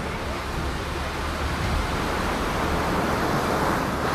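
Steady rushing roar of fast-flowing water, with a heavy low rumble, growing a little louder in the second half.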